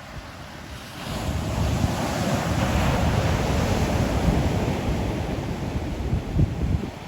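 Sea waves breaking on the shore: a wave surges in about a second in and washes for several seconds before falling away near the end, with wind rumbling on the microphone.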